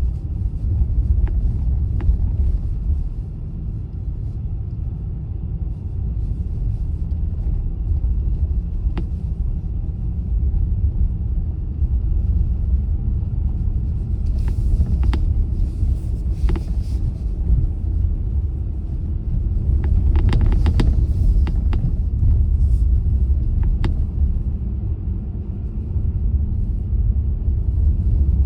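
A car being driven: a steady low rumble of road and engine noise, with scattered sharp clicks and ticks that bunch up about halfway through and again a little later.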